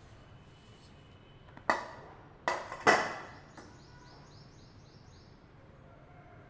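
Quail calling: three loud, harsh calls in quick succession, the last two close together, followed by a quick run of about eight short high chirps.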